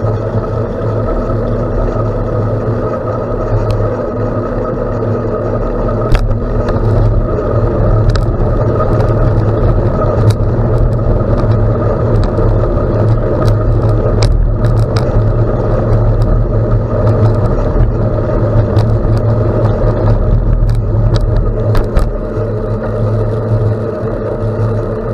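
Continuous loud riding noise from a bicycle on a gravel road: low wind rumble on the microphone and tyre noise, with scattered sharp clicks and rattles.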